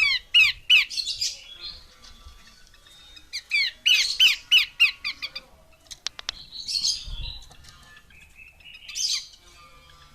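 Calls of a female pelanduk semak, a Malacocincla babbler. Two quick runs of sharp, down-slurred whistled notes come at the start and again about four seconds in, followed by harsher chattering calls later on.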